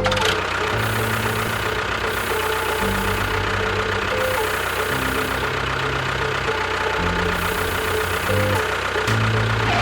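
An engine running steadily at idle, with a low, uneven throb.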